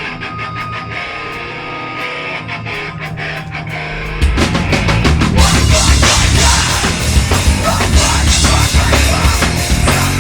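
Heavy metal band playing live: a quieter passage of held guitar notes punctuated by drum hits, then about four seconds in the full band crashes in loud with heavy bass and drums.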